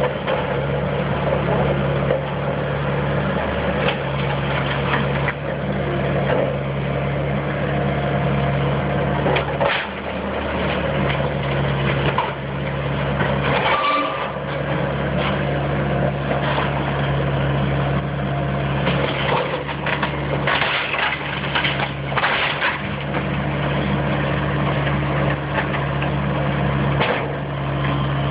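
A heavy demolition machine's engine running steadily as it pushes down a house's walls, with repeated cracking, splintering and crunching of breaking wood. The engine hum dips briefly a few times.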